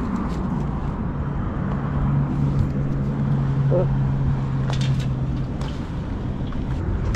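Outdoor street and traffic noise, with a motor vehicle engine humming steadily for a few seconds in the middle.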